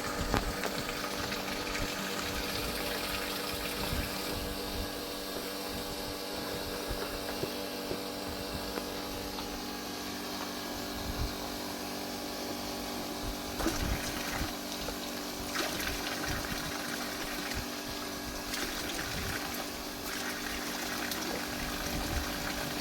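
Steady rush of running water, with a faint steady hum underneath.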